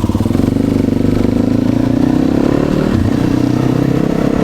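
Four-stroke 450 dirt bike engine running with a fast, even firing pulse. Its pitch rises a little over the first two seconds and drops back about three seconds in.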